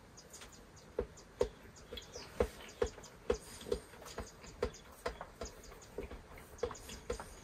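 Close-up chewing of a mouthful of banana: moist, smacking mouth clicks, about two to three a second.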